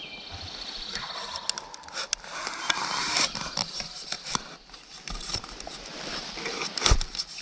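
Close rustling, scraping and clicking with a sharp thump near the end: a hunter settling into his spot in dry leaves and handling his gear.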